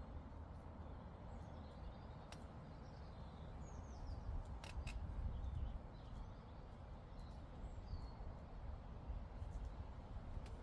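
Meadow ambience: a steady low rumble of breeze on the microphone, with faint bird chirps scattered through and a few sharp clicks about two and five seconds in.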